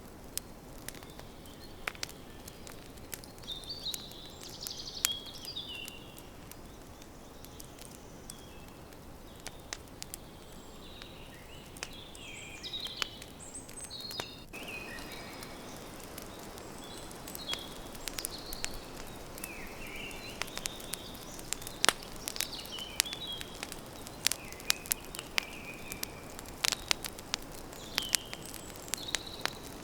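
Campfire crackling, with sharp pops and snaps over a steady low hiss, the pops coming thicker in the second half. Small birds chirp and twitter throughout.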